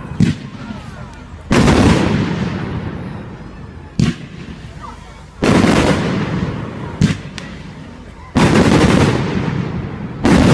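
Aerial fireworks going off. Three times, a short sharp crack is followed about a second and a half later by a loud bang with a long rumbling tail, and a fourth loud bang comes right at the end.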